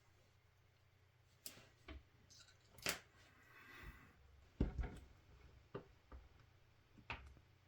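Scattered light clicks and taps of small objects handled on a work table during model painting, with a louder knock about 3 seconds in and a short cluster of knocks near the middle, and a faint brief rustle between them.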